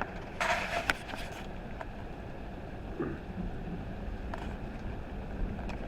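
Heavy rain pouring down steadily in a thunderstorm, with a brief, sharper burst of noise about half a second in.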